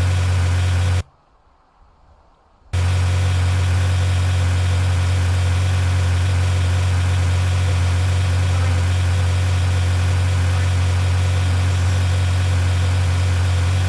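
A vehicle engine idling with a steady low drone, broken by a gap of near silence lasting about a second and a half, about a second in.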